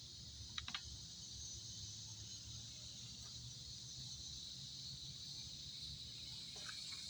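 Quiet outdoor background with a steady high-pitched insect drone, and a couple of light clicks a little over half a second in.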